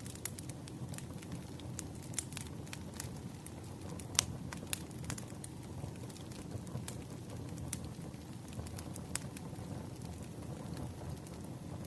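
Wood fire crackling: a steady low rustle of the flames with scattered sharp pops, the loudest about four seconds in.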